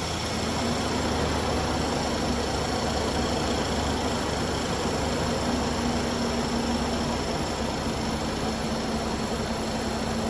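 1993 Ford Ranger engine idling steadily, freshly started.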